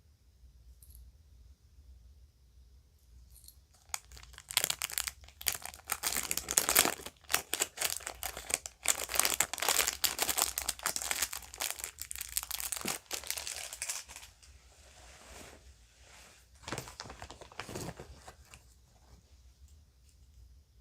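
A bag crinkling and rustling as it is handled, starting about four seconds in and staying dense for about ten seconds, then softer, with a short burst near the end.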